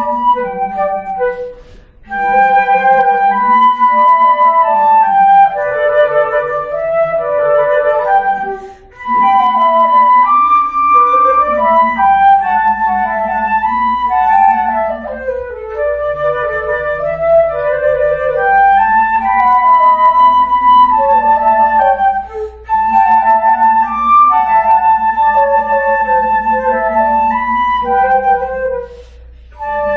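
Two flutes playing a slow, lyrical melody in harmony, one part carrying the tune above a lower sustained line. The music moves in phrases with brief breath pauses about every seven seconds.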